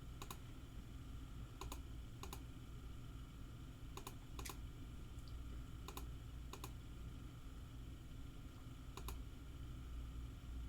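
Scattered single key clicks on a computer keyboard, about eight irregular taps, over a faint steady low hum.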